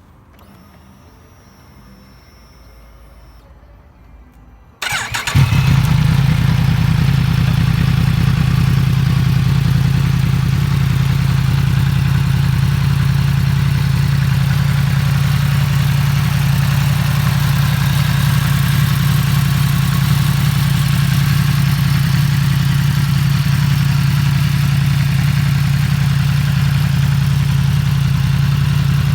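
Yamaha MT-10 SP's crossplane inline-four engine starting about five seconds in, then idling steadily through an Akrapovič slip-on silencer of the road-legal, JMCA-approved type.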